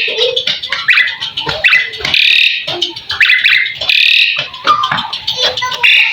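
Black-collared starling (jalak suren) in full song: loud, harsh squawking calls in a burst about every second, mixed with clicks and short whistled notes.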